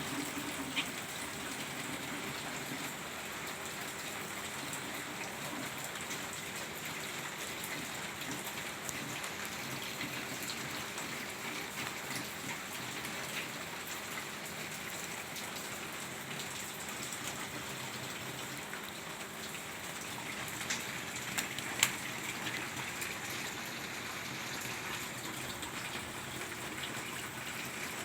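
Steady rain falling and pattering on surfaces, with a few sharper drop or tap sounds, one near the start and a small cluster about three quarters of the way through.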